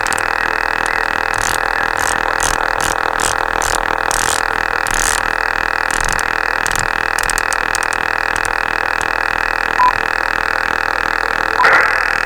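Radar interference on a shortwave amateur radio band, heard through the receiver's speaker as a loud, steady noise that fills the receiver's audio and buries the stations; the noise reduction leaves it there and the noise blanker only dents it. A short blip comes near 10 seconds, and a brief louder burst comes near the end.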